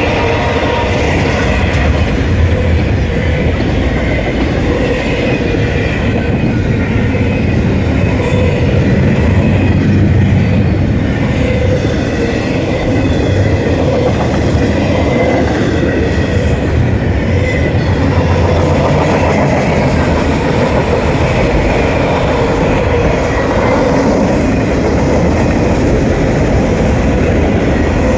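CSX mixed freight train rolling past: a steady rumble of wheels on rail with clickety-clack from the passing cars and faint wheel squeal. The tail of the train horn fades out right at the start.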